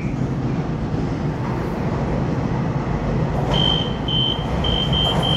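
Taiwan Railway EMU3000 electric train approaching through the tunnel into an underground platform: a steady low rumble. From about three and a half seconds in, a thin high whine starts and stops repeatedly over it.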